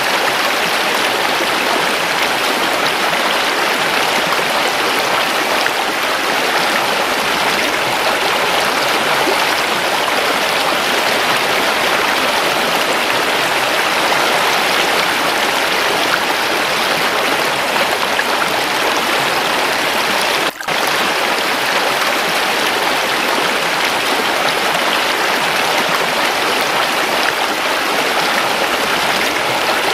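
Waterfall's running water: a steady, dense rush of splashing water, with one momentary dip about twenty seconds in.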